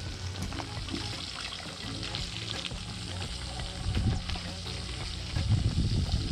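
Whole crappie and bream frying in hot grease, with a steady sizzle and crackle. A low rumbling bump comes about four seconds in and again near the end.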